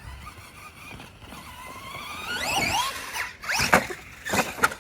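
Electric RC monster truck's motor whining and rising steeply in pitch as it accelerates, followed by loud, sharp squeals twice in the second half.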